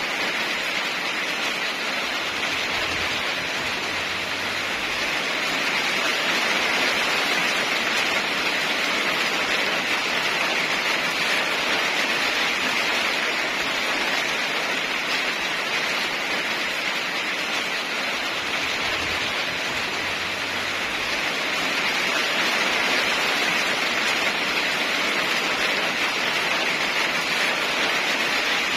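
Steady heavy rain falling, an even hiss with no breaks that swells slightly in loudness a couple of times.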